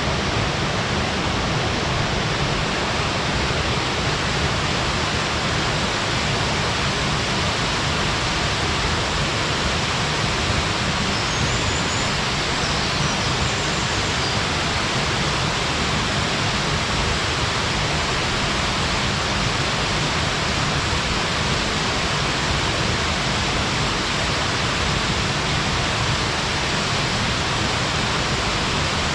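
Waterfall pouring down, a steady, even rush of falling water with no change.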